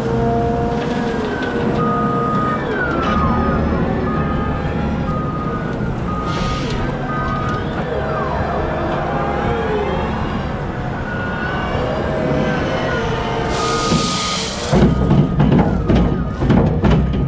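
Heavy machinery engine running loud and steady, with a reversing alarm giving short beeps about once a second and some whining tones sliding up and down. Drum-heavy music comes in near the end.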